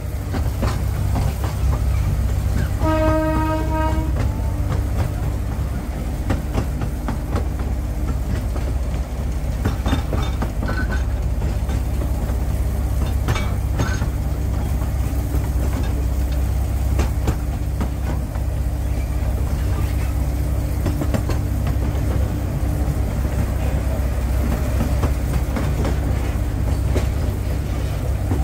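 Narrow-gauge train running, heard from aboard a passenger carriage: a steady low rumble of wheels on the track with scattered clicks. The locomotive gives one short toot, about a second long, some three seconds in.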